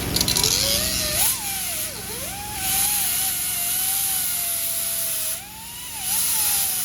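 High-speed grinder cutting into metal, its motor pitch dipping under load and recovering several times over a steady high hiss, with a short break about five and a half seconds in. It is cutting off an exhaust fastener.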